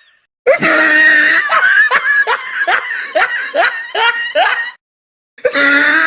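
Laugh sound effect: a high-pitched laugh made of a quick string of short "ha" bursts, two or three a second. It stops just before the end, and after a brief gap a second laugh clip begins.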